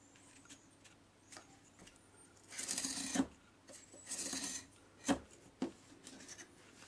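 Two short scraping strokes across a piece of styrofoam while it is measured and marked, followed by two light knocks.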